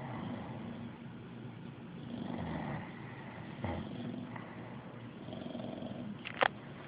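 English bulldog snoring in several slow breaths, about one every one to two seconds, with a sharp click near the end.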